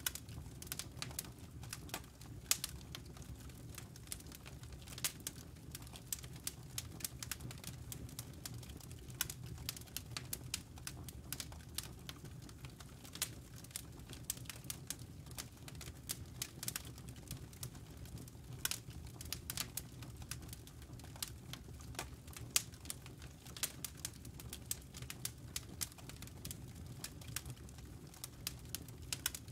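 Wood fire crackling in a fireplace: irregular sharp pops and snaps of burning logs over a low, steady hum.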